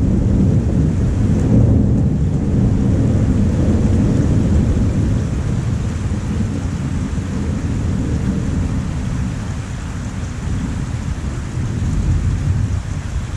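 Thunder rumbling over steady rain: loudest in the first couple of seconds, easing through the middle and building again near the end.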